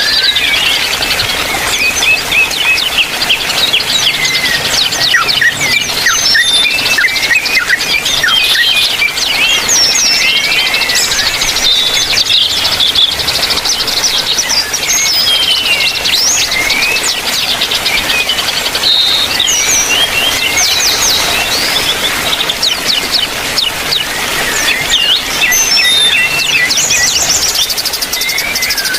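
A dense, continuous chorus of many small birds chirping and calling over one another in an aviary. The mix includes yellow-vented bulbuls among smaller birds.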